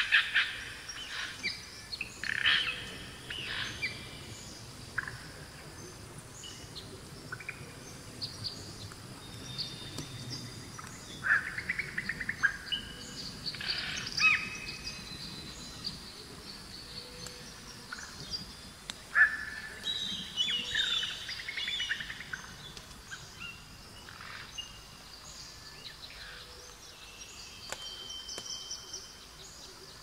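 Several songbirds calling and singing: short chirps and quick bright phrases from more than one bird, coming in clusters over a faint steady background hiss.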